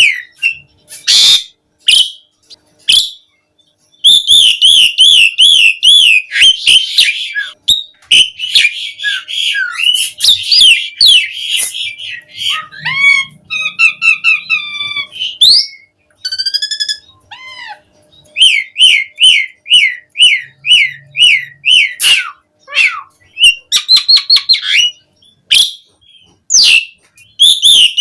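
Asian pied starling (jalak suren) singing a loud, varied song. It gives runs of quick up-and-down whistles, several a second, mixed with sliding notes and harsher calls, with short pauses between phrases.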